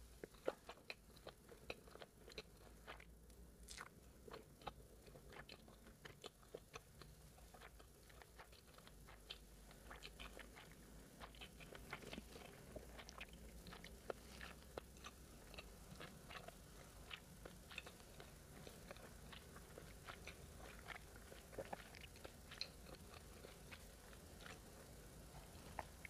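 Faint, close-miked chewing: a steady stream of small wet mouth clicks and soft crunches as food is chewed with the mouth closed.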